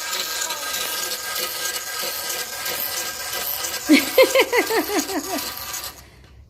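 Small battery-powered toy motor whirring steadily, stopping about half a second before the end. Around four seconds in, a quick string of about eight short rising-and-falling yips sounds over it.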